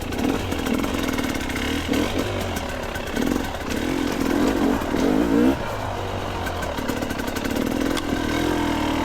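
Two-stroke dirt bike engine running and revving up and down, its pitch rising and falling.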